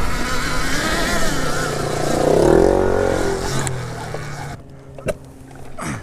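Dirt bike riding on a trail: wind rush and motor noise with a wavering whine, and a rise and fall in pitch about two and a half seconds in. The riding noise drops away suddenly about four and a half seconds in, followed by a single knock.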